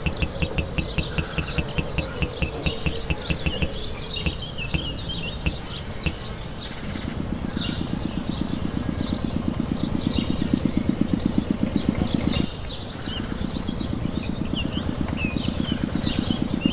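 Tractor engine chugging in a steady rhythmic putt-putt, about five beats a second, getting louder and busier from about seven seconds in and dropping back briefly near twelve seconds. Birds chirp throughout.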